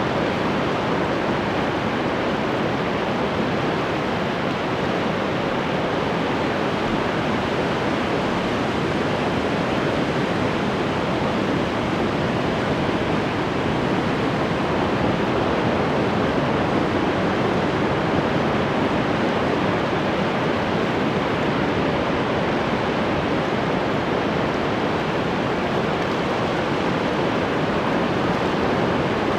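Ocean waves washing on the shore in a steady, continuous rush with no distinct breaks or crashes.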